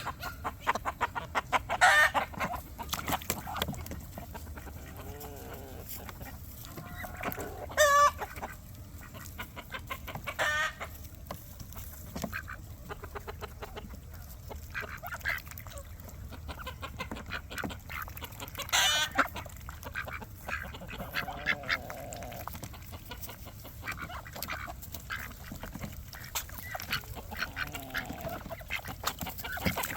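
Mixed backyard flock of ducks and chickens calling over one another, with four louder calls standing out at intervals and many small clicks between them.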